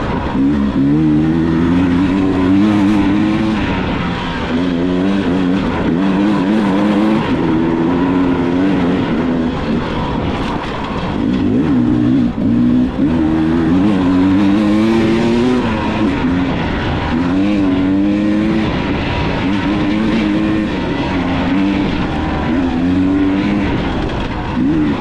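Dirt bike engine being ridden hard: its pitch climbs and drops again and again as the throttle opens and closes and the gears change, over a steady rush of noise.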